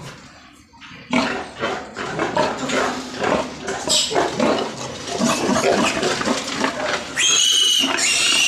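Pigs grunting and squealing, many overlapping calls, with two loud high-pitched squeals near the end.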